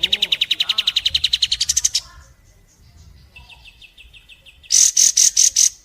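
Recorded calls of kapas tembak and pelatuk bawang woodpecker on a bird-training track. A loud, fast rattling trill lasts about two seconds and rises slightly in pitch at the end. A fainter, quicker trill follows, then five loud high notes near the end.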